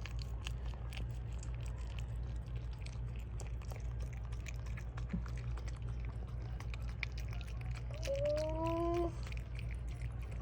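Wet licking and smacking of a mother dog cleaning a newborn puppy, over a steady low hum. About eight seconds in, a single rising whine lasts about a second.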